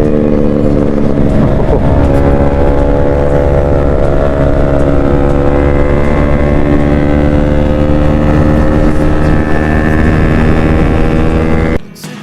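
Motorcycle engine running under way at a steady pace, its pitch rising slowly as the bike gathers speed; the sound drops away suddenly near the end.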